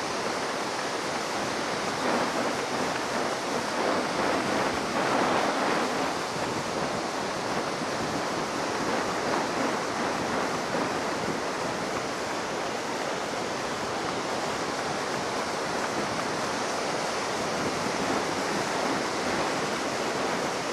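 High surf on a sandy beach, left rough by a passing typhoon: a steady rush of breaking waves that swells louder a few seconds in, with wind on the microphone.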